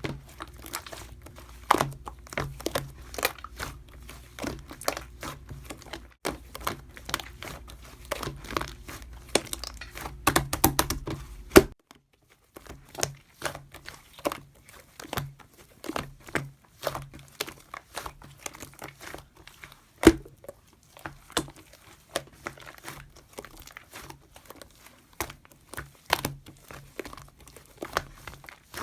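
Slime being kneaded and pressed by hand as white slime is mixed into clear green slime, with irregular sticky pops and crackles from trapped air. There is a short pause about twelve seconds in.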